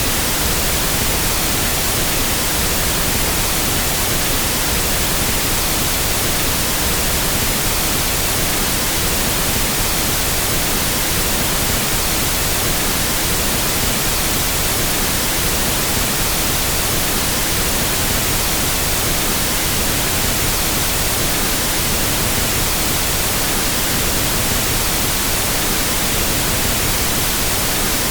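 Pink noise test signal: a steady, unchanging hiss across the whole range of pitch, of the kind used for equalizing sound systems.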